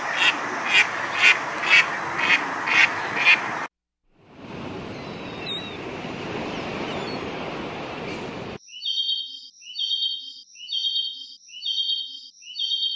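Ducks quacking in a steady rhythm about twice a second for the first few seconds. This is followed by a few seconds of noisy outdoor sound, then a run of high, evenly spaced chirping calls about once a second.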